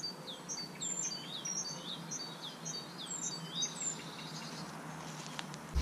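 A small songbird singing a quick run of short, high, downward-slurred chirps, about three a second, that stops about four seconds in, over faint outdoor background noise.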